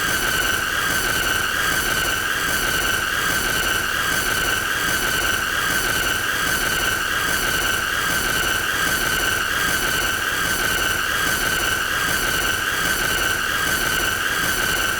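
A continuous high-pitched squealing tone, held at one pitch with a slight waver and a stack of overtones, over a hissy background, without a break.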